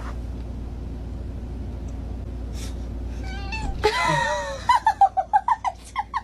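A cat meowing over a steady low hum: a drawn-out, wavering call about four seconds in, then a quick run of short mews, about four a second, near the end.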